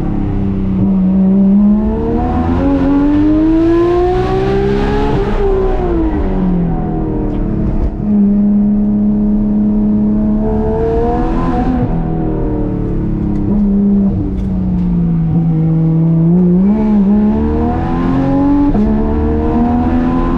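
Porsche 991.2 GT3 RS's naturally aspirated flat-six, breathing through Dundon Crack Pipe and street headers, driven hard. The engine note climbs as it revs up and drops back several times, holding steady between pulls.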